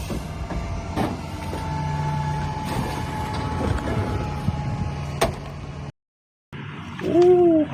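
Plastic clicks and rattles of a toy garbage truck being handled, over a steady low hum; the sound drops out completely for a moment near the end.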